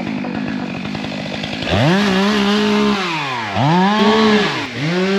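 Two-stroke chainsaw revved three times: after about a second and a half near idle, the engine climbs quickly to full throttle and holds a steady high pitch, drops back briefly twice and revs up again.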